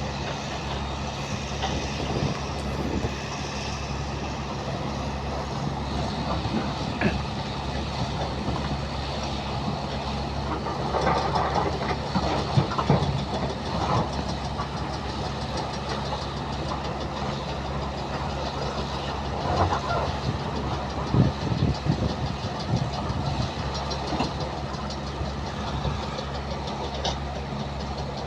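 JCB excavator's diesel engine running steadily, with bursts of knocking and clatter a little before the middle and again about two-thirds through.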